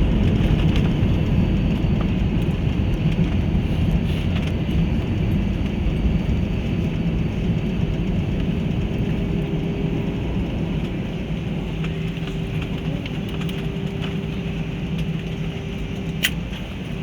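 Airliner cabin noise as the plane slows down after landing: a steady rumble of engines and rolling wheels that gradually dies down, with a steady hum coming in about halfway and a single sharp click near the end.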